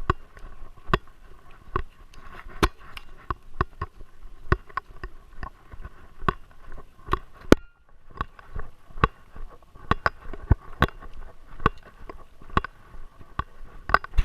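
Sharp knocks and clicks, about one or two a second, from a GoPro in its housing strapped to a Great Dane, the housing and harness jolting with the dog's movements. The sound drops out briefly about seven and a half seconds in.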